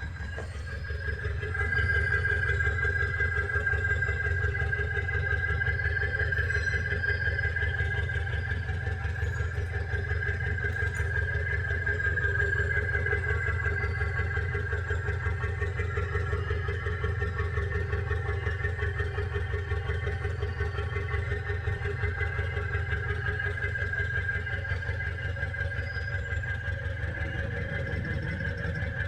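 Mitsubishi L200's 4D56U four-cylinder diesel engine running steadily, with a steady high whine over the engine note; it gets louder about two seconds in. The engine is burning oil and putting out blue exhaust smoke.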